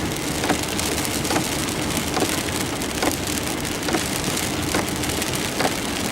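Heavy rain falling steadily, with a soft tap repeating a little more than once a second.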